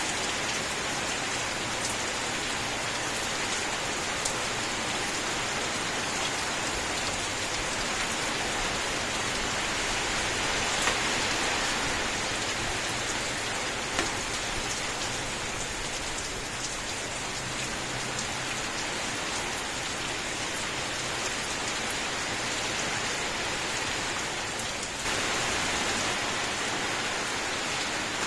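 Steady rain: an even, dense hiss with a few sharper drop hits, growing a little louder about three seconds before the end.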